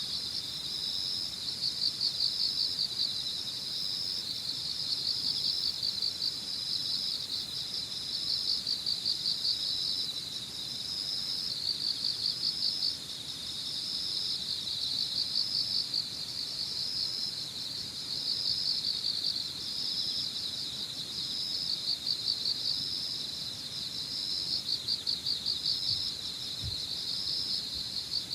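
Evening insect chorus of crickets: a continuous high chirring made of rapid pulsed chirps that swell into repeated bursts every second or two.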